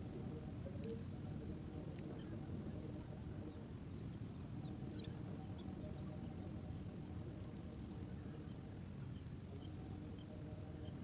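Insects trilling: a steady high trill that breaks off and resumes every few seconds, with a shorter chirp repeating about every second and a half, over a low rumble.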